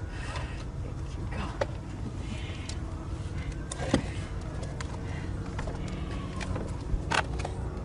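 Scattered knocks and clatters of debris being shifted in tornado rubble, the sharpest about four seconds in and again near the end, over a steady low rumble.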